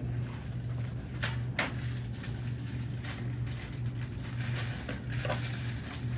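Steady low electrical hum of a food-stall kitchen, with two sharp clicks of utensils or containers about a second in and a fainter one near the end.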